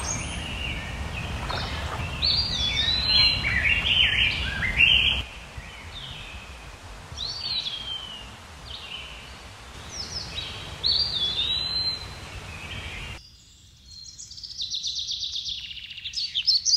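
Birds chirping and singing outdoors: short, repeated, slurred whistled calls, over a low rumble that cuts off about five seconds in.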